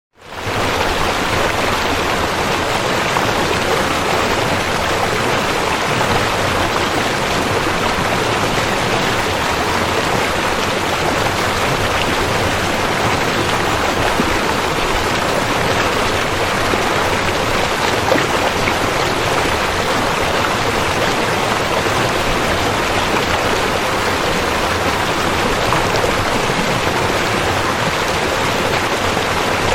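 River water flowing and rushing in a steady, even wash, fading back in from a brief dropout at the very start.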